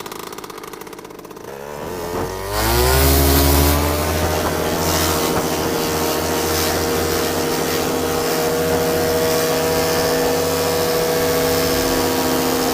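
Paramotor engine, fitted with a newly welded exhaust, revving up from low throttle to full power about two seconds in for takeoff. It then holds a loud, steady high-power drone.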